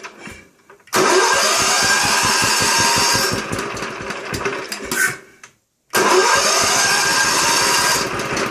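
Electric starter motor cranking a Viscount stationary engine in two bursts, the first about four seconds long and the second starting after a half-second pause. The engine turns over with an even beat but does not fire, because its on/off ignition switch has been left off.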